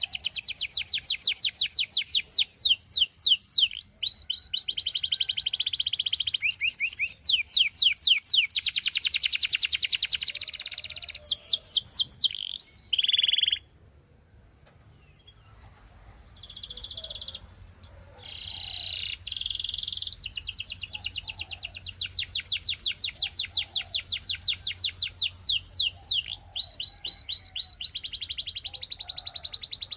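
Domestic canary singing in fast trills: runs of rapidly repeated, sweeping high notes that change from one tour to the next. The song breaks off about halfway through for two or three seconds, restarts with short phrases, then runs on in steady trills.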